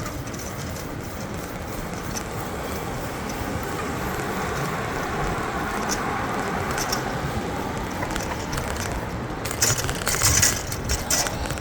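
Traffic and road noise heard from a moving bicycle: a passing car swells and fades over several seconds. About ten seconds in comes a burst of rattling and knocks.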